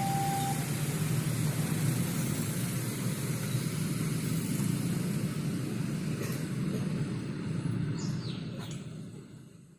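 An electronic level-crossing warning alarm, alternating between two pitches, stops about half a second in. A steady low vehicle rumble follows and fades out near the end, with a few short bird chirps.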